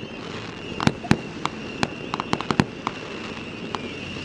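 Fireworks going off in quick, irregular succession: about a dozen sharp bangs and pops of varying strength, with the loudest a little under a second in and again just over a second in.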